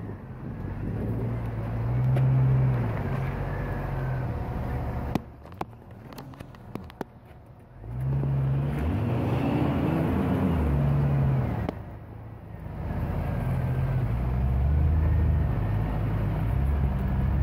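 Jeep Cherokee XJ engine running under load off-road, its revs rising and falling. About five seconds in it drops away for a few seconds, with a few sharp clicks, then comes back.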